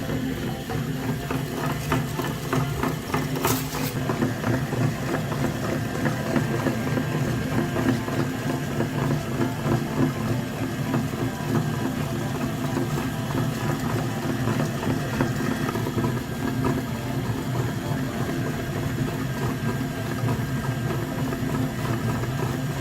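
Mini tractor's motor running steadily with a fast rattle, and one sharp click about three and a half seconds in.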